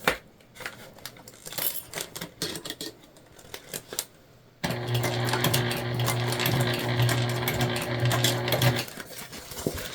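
Sewing machine stitching through jelly vinyl bag panels: a few scattered clicks, then the motor runs steadily for about four seconds from about halfway in, and stops near the end.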